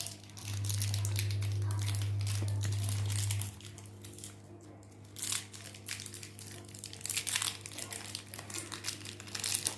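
Crinkling and rustling of packaging being handled as new 6202 ball bearings are brought out, with a steady low hum from about half a second in to about three and a half seconds in.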